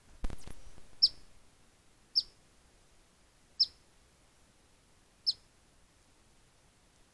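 Black phoebe calling: four sharp, high, down-slurred chip notes, spaced irregularly about one to one and a half seconds apart. A brief noisy burst comes just before the first chip.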